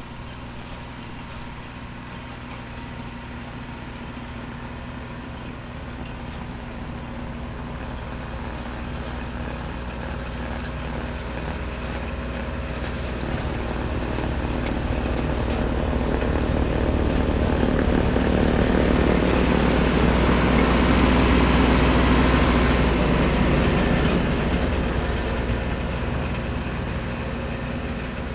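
Tractor engine running a snowblower at a steady pace. It grows louder for about twenty seconds as it comes closer, with a rising rush of noise, then fades as it moves away.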